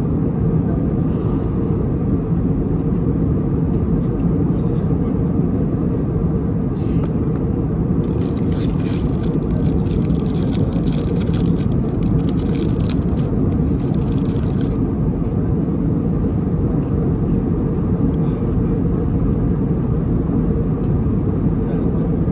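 Steady cabin noise of an Airbus A321neo in cruise: a deep, even rush of engine and airflow noise. From about eight seconds in, a crackling rustle close to the microphone runs for about seven seconds.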